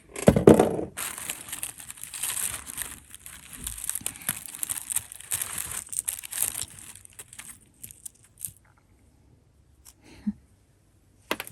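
Crinkling and rustling of packaging being handled for about six and a half seconds, then a few light clicks.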